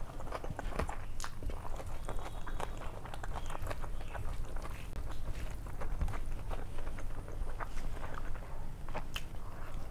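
Close-miked eating by hand: chewing with wet mouth clicks and smacks, and the squish of fingers mixing rice and dal on a steel plate, heard as many irregular short clicks.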